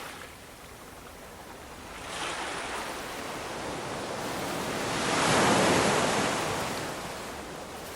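Ocean waves breaking and washing on the shore: a quieter lull, then a wave surges in about two seconds in, grows to its loudest around the middle and slowly washes back out.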